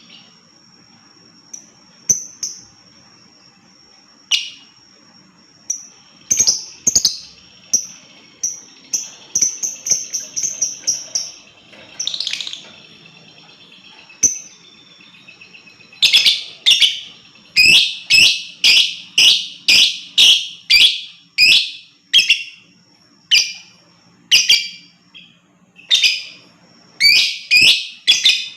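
Lovebird calling with sharp, shrill chirps: scattered calls at first, a quick run of chirps about ten seconds in, then from about halfway a steady string of loud calls roughly two a second.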